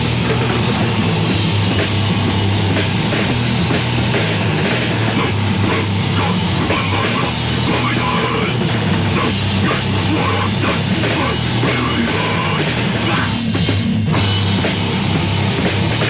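Heavy metal band's 1987 demo recording playing: loud, dense distorted guitars and bass over a pounding drum kit.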